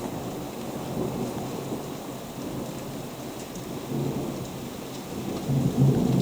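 Heavy rain falling steadily with thunder rumbling low underneath, the rumble swelling about four seconds in and growing louder near the end.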